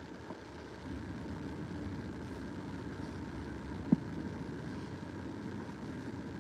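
Steady low background hum, with a single short click about four seconds in.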